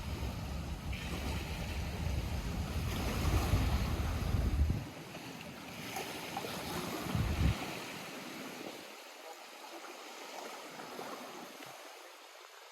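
Lake water lapping and washing at the shore, a steady noisy wash that slowly grows quieter. Wind buffets the microphone with a heavy low rumble for the first half, cutting off about five seconds in, with one more short gust a couple of seconds later.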